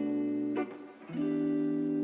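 Guitar music: strummed chords ringing out, with a new chord struck about a second in and held.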